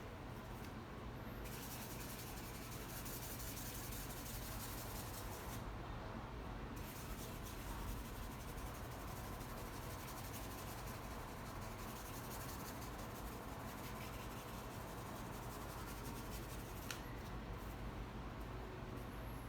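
Paintbrush rubbing across canvas paper while blending wet paint, in long stretches of soft scratchy strokes with short pauses between, over a low steady hum.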